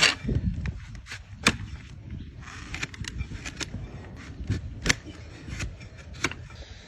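A donkey's hooves knocking on hard ground as it is walked and shifts its feet: irregular sharp clops, loudest at the very start, about a second and a half in and about five seconds in, over a low rumble.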